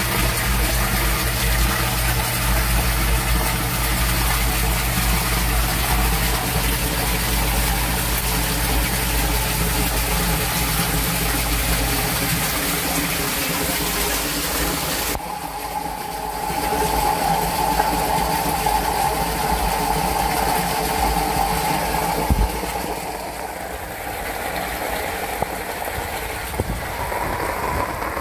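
Rushing water from a sump pump drainage system in heavy rain, with a steady motor hum. The low hum stops partway through, and a steadier, higher tone comes in after the middle.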